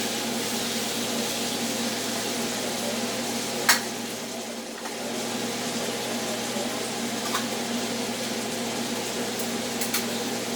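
Pieces of chicken breast and thigh sizzling steadily as they stir-fry in a pan. A utensil knocks sharply against the pan about a third of the way in, and lightly twice more near the end.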